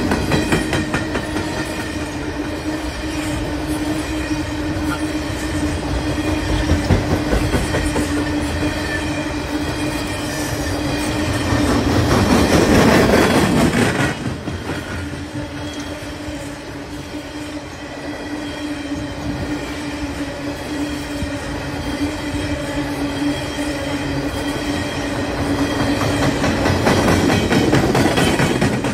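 Freight cars of a long Canadian Pacific train rolling past close by: wheels clacking over the rails, with a steady droning tone through it. About halfway through the tone drops out for a few seconds under a louder rush, then returns.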